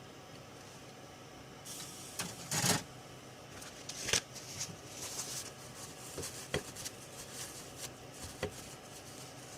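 Irregular light clicks, taps and short rustles of small objects being handled on a workbench, starting about two seconds in, over a faint steady hum.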